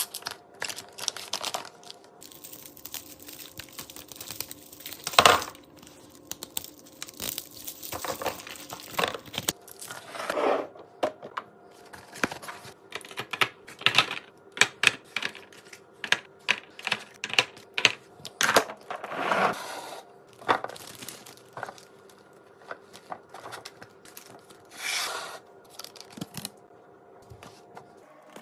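Food packaging being torn open and crinkled, mixed with many short clicks and knocks of items being handled and set down, over a faint steady hum.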